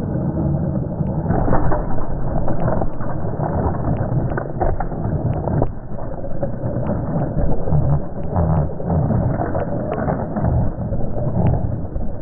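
Remote-control monster truck running into Lego bricks: a loud, muffled, continuous rumble with scattered sharp clicks of plastic.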